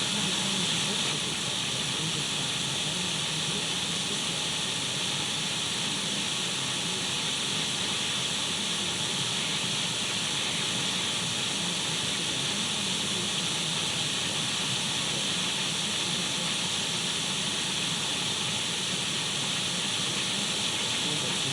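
Radio static: the steady, unchanging hiss of an untuned radio, strongest in the upper middle of the range.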